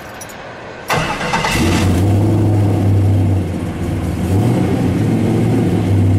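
LS3 V8 engine started: the starter cranks briefly about a second in, the engine catches at once and settles into a steady idle.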